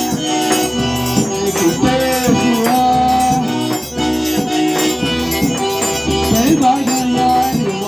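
Forró music with an instrumental melody on an eight-bass button accordion (sanfona de oito baixos), a shaker keeping a steady rhythm underneath.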